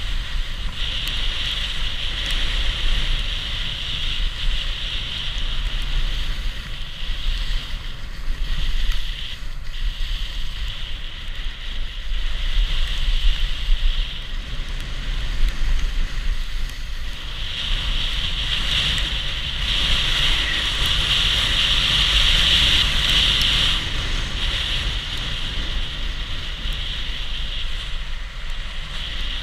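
Wind rushing over the microphone with a steady hiss of sliding over snow during a downhill ski-trail run, over a low rumble; it swells louder for several seconds past the middle.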